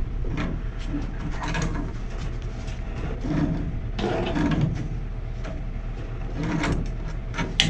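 Hands-on work noise as pipe fittings and tools are handled: irregular scrapes and knocks, with a sharp click near the end, over a steady low hum.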